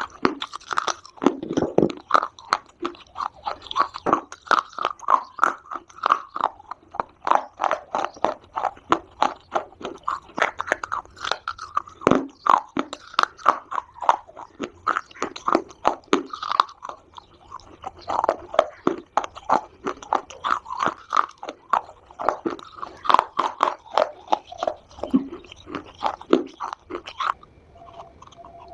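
Close-up crunching and chewing of dry Multani mitti (fuller's earth) clay chunks: a steady stream of quick, crisp crackles and snaps as the pieces are bitten and ground between the teeth.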